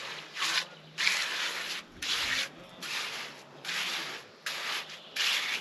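Hand trowel scraping across wet concrete in repeated back-and-forth strokes, about seven in a row, as the surface is smoothed.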